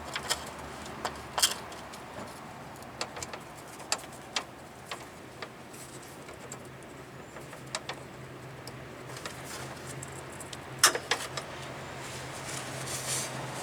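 Scattered light metal clicks and clinks of a brake-line double-flaring tool's bar and adapter being handled and fitted, with a sharper knock about eleven seconds in, over a faint steady low hum.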